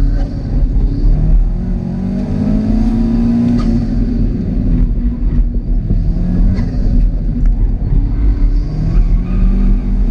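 2006 Subaru WRX STI's turbocharged flat-four engine, heard from inside the cabin, revving hard and easing off as the car is driven at speed through an autocross course. Its pitch climbs about two seconds in, falls after a second or so, and rises again near the end.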